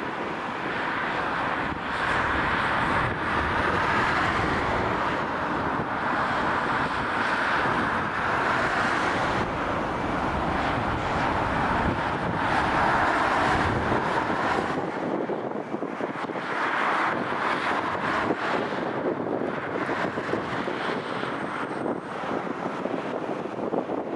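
Airbus A320neo jet engines on landing, a steady loud rushing noise whose low rumble falls away about two thirds of the way through, with wind buffeting the microphone.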